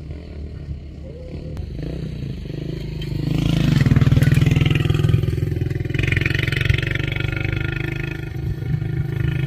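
A motor engine running with a steady low rumble, growing louder about three seconds in.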